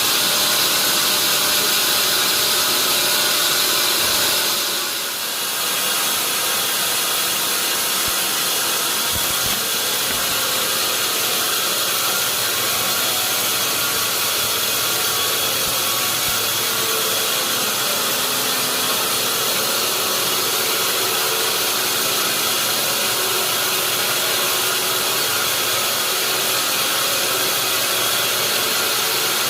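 Sawmill saw machinery running steadily with a constant high hiss, dipping briefly about five seconds in.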